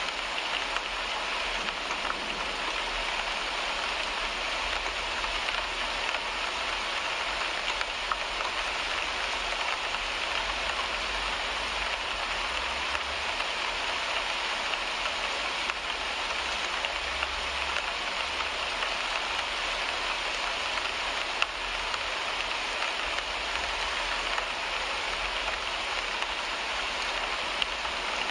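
Steady rain falling on a car windshield, heard from inside the car, with a few single drops ticking sharply against the glass and a low rumble underneath.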